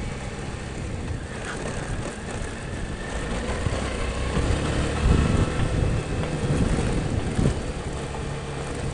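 Motorcycle running at low speed over a rough, rutted dirt road, with wind buffeting the microphone and a few heavy jolts from bumps past the halfway point.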